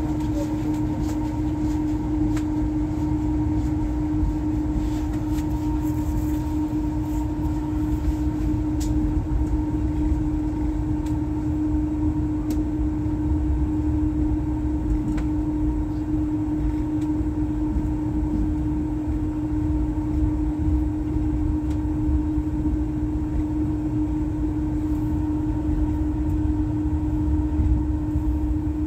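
Steady rumble inside a moving passenger train carriage, with a constant hum over it and a few faint ticks in the first half.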